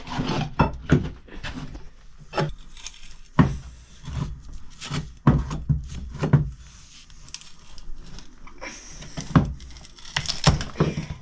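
A steel crowbar being tried out on wood: irregular knocks and scraping with bursts of wood cracking and creaking as it pries.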